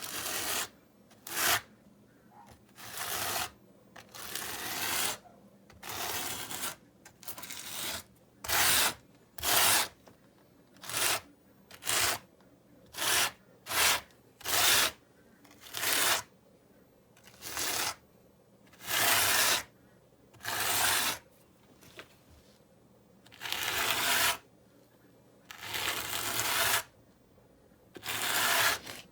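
Repeated rasping scrapes of a hand tool working mortar around river rock: about twenty separate strokes, each half a second to a second long, coming at an uneven pace with short pauses between.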